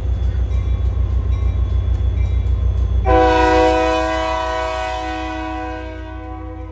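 Diesel locomotive rumbling steadily. About three seconds in, its air horn sounds one long chord of several tones, which slowly fades away.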